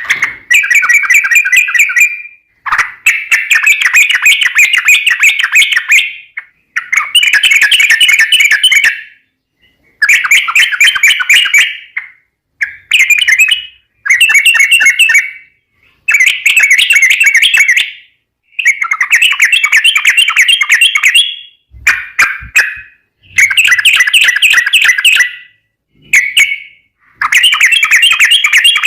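Yellow-vented bulbul (trucukan) singing: a run of loud phrases of rapid chattering notes, each lasting one to three seconds, with short pauses between.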